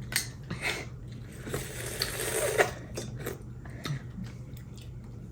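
Seafood shells being cracked and picked apart by hand: scattered sharp clicks and crunches, with a short rustling, crackling stretch about two seconds in that ends in one loud crack.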